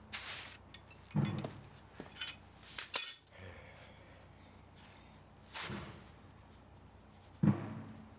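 Metal clinks and clanks from tools and metal parts being handled and set down while an electric motor is taken apart for scrap: several separate knocks, the loudest about a second in and near the end.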